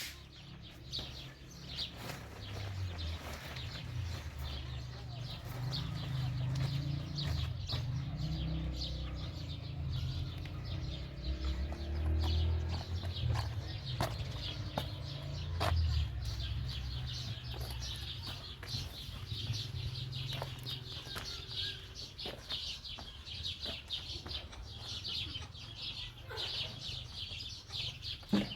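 Birds calling, many short chirps over a steady low rumble.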